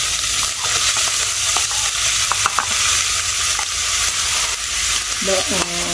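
Ground shallot, garlic, lemongrass and ginger paste sizzling as it is poured into hot oil in a wok: a steady frying hiss.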